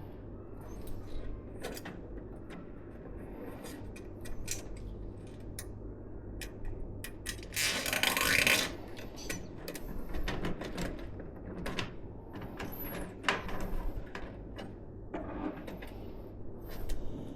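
Hands working on a desktop PC build: scattered small plastic and metal clicks and taps, with a louder scraping rustle lasting about a second near the middle, over a steady low hum.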